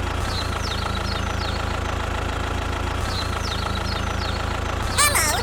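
Steady engine idling, an even low hum, with faint short falling chirps over it. A high, squeaky voice cuts in near the end.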